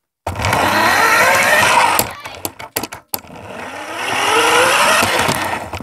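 Electric motor of a toy RC car whining as the car is driven, rising in pitch as it speeds up, in two runs with a short drop between them about two seconds in.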